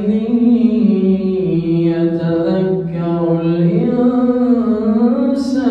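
A man's voice chanting Quran recitation (tajweed) in a long, unbroken melodic line, its pitch slowly rising and falling.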